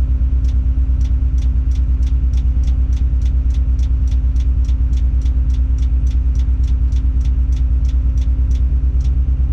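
Tadano 180G-5 all-terrain crane's diesel engine running steadily, heard from inside the operator's cab. A rapid, even ticking of about three ticks a second runs over it.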